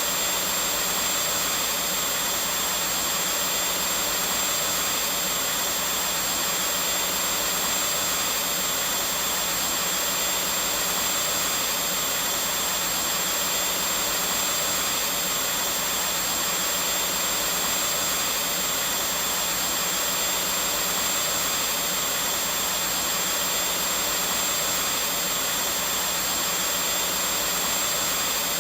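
Vacuum cleaner running steadily: a constant motor whine and rush of air with a low hum underneath, never changing in pitch or loudness.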